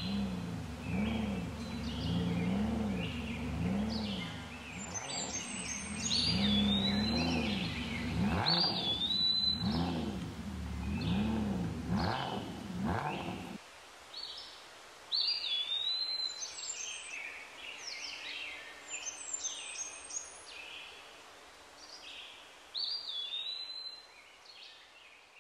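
Birds singing, with repeated high chirping calls throughout. Under them a low tone rises and falls about once a second, then cuts off abruptly about halfway through.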